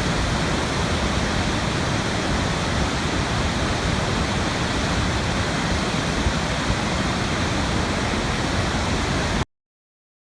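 Waterfall: a steady, even rush of falling water that cuts off abruptly near the end.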